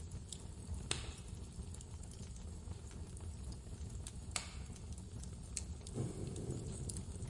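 Wood fire crackling: two sharp pops, about a second in and just past four seconds, with lighter ticks between, over a steady low rumble of blizzard wind.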